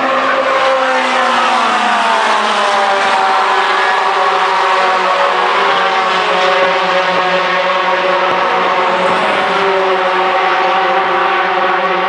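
Several racing pickup trucks' engines running hard at race speed, their notes overlapping; one engine note falls in pitch between about one and three seconds in.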